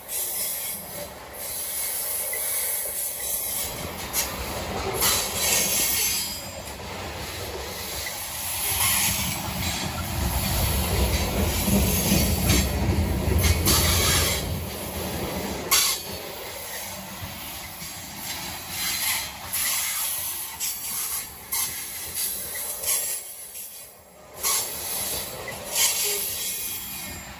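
Covered hopper cars of a freight train rolling past: steel wheels on the rails give a steady rumble with a high hiss and repeated short clicks. It swells louder in the middle.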